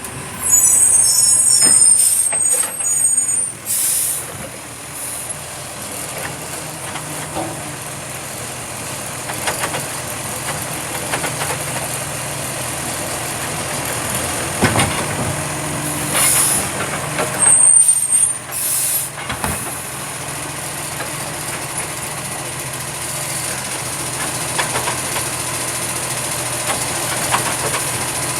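Recycling truck running steadily while picking up wheelie bins, with high squeals in the first few seconds and again about two-thirds through, and short air-brake hisses.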